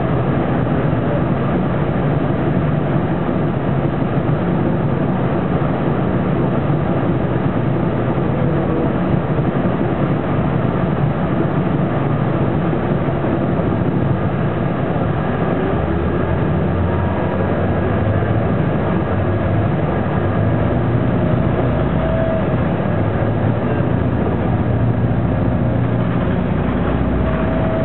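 Cabin sound of a 2000 Neoplan AN460 articulated bus under way: its Detroit Diesel Series 50 inline-four diesel running steadily, with road noise and the air conditioning. About halfway through, the engine's low note grows stronger.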